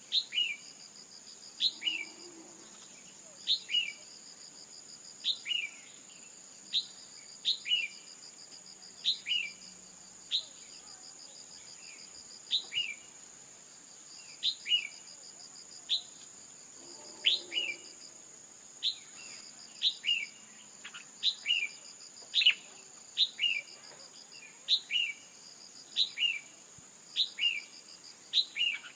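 Female red-whiskered bulbul calls, a short sharp note sweeping down repeated about once a second, used as a lure to set male bulbuls singing. A steady high insect-like drone and a pulsing trill run behind.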